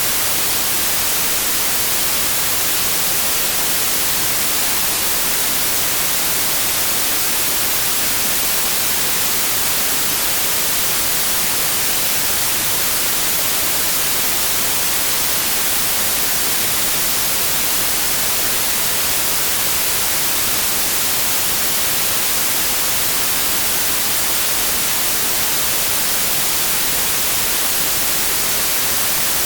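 Steady, unchanging white noise: an even electronic hiss across the whole range, brightest at the top, with no tones or events.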